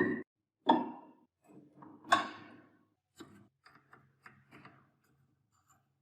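Metal parts of an antique ice crusher knocking together: three sharp, ringing clinks in the first two and a half seconds, then a run of fainter clicks and taps.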